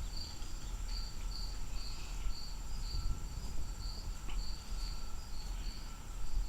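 Crickets chirping in an even rhythm of about three chirps a second, over a steady high insect trill, with a low rumble underneath.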